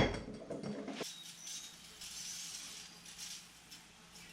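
A single loud metallic clang that rings for about a second, then faint scattered clinks of hand tools on metal.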